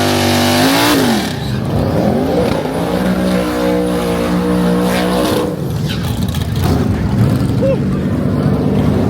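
Modified drag car engine revving close by: a loud burst of noise at the start, then revs climbing and falling, held steady high for about two seconds in the middle before dropping off.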